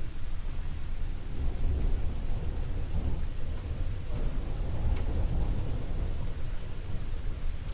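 Steady rain falling, with a continuous deep rumble underneath and a few faint drip ticks.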